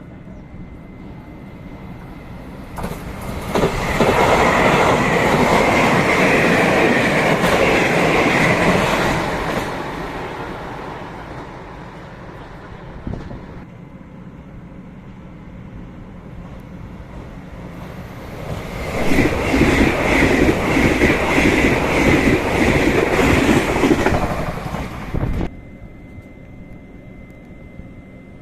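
A train passing close by on the rails, running and clattering over the track, for about six seconds. A second train pass follows mid-way and is just as loud. It cuts off suddenly near the end.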